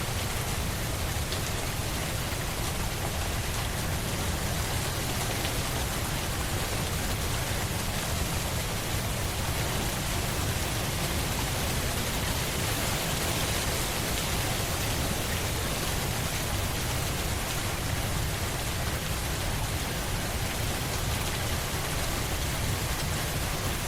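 Steady rain falling on a surface, an even unbroken hiss of drops with a low rumble underneath.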